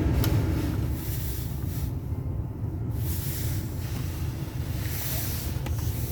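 The 2008 Chevrolet Avalanche's engine idling, a steady low rumble heard from inside the cab, with some irregular hiss on top.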